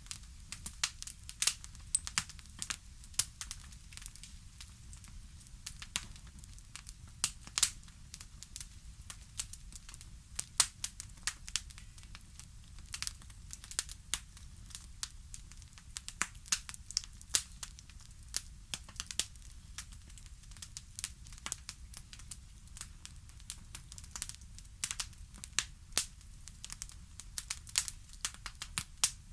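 Wood fire crackling in a fireplace: irregular sharp pops and snaps, several a second, over a faint low rumble.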